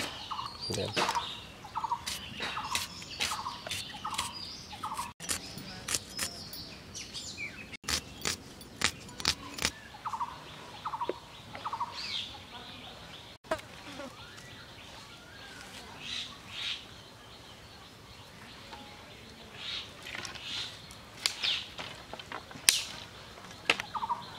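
A bird calling in runs of short, repeated notes, a little under two a second, with sharp clicks and snaps from the kitchen work.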